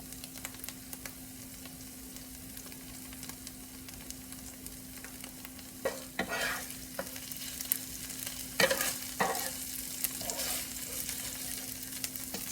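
Chicken in barbecue sauce sizzling on a hot griddle as the sauce caramelizes, with a few utensil scrapes and taps on the griddle about six and nine seconds in.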